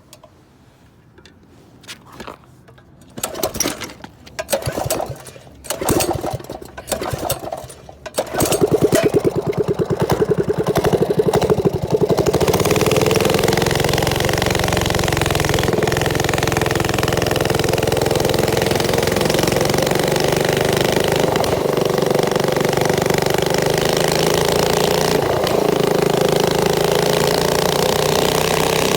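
A series of short, irregular noises, then about eight seconds in a mini bike's small engine catches and runs with a rapid chug, settling into a steady idle.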